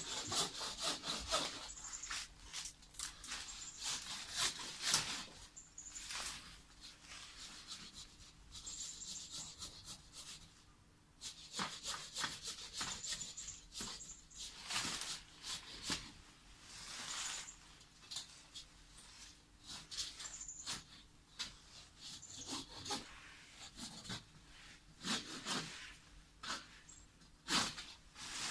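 Hand saw cutting wood: irregular rasping strokes in spells, with short pauses between them.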